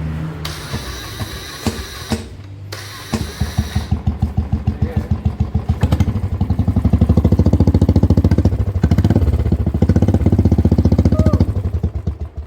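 Royal Enfield Thunderbird 350X single-cylinder engine, breathing through an aftermarket double-barrel silencer with the dB killer removed. The starter cranks in two short bursts and the engine catches about three seconds in. It idles with distinct, even exhaust pulses, is held at higher revs from about six seconds, and drops back near the end.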